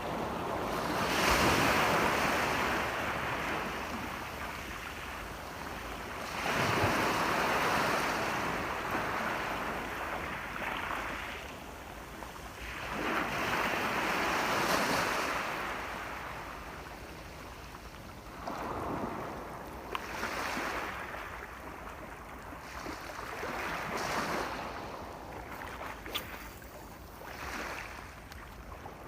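Ocean waves breaking on a shore, each surge swelling and washing out, about every six seconds.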